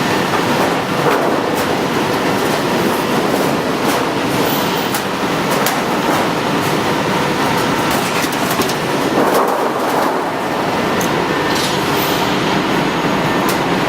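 Garage door panel roll forming machine running: a steady mechanical din with scattered sharp clicks and knocks.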